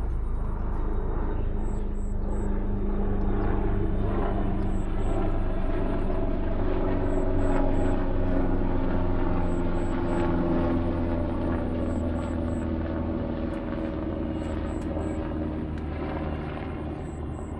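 A steady motor drone with tones that slowly drift in pitch, a little louder in the middle. Faint high pips in groups of three repeat about every two and a half seconds.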